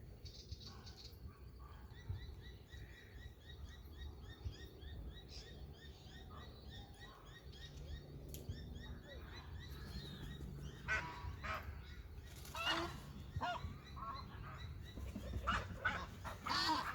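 Small songbird chirps repeat quickly through the first half. From about eleven seconds in, geese honk several times, louder, over a low steady rumble.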